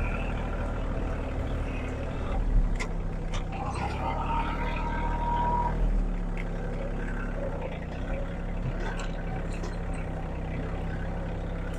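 A large engine on a land-clearing machine running steadily, as if working debris into a pile. A higher whine joins it for a couple of seconds near the middle.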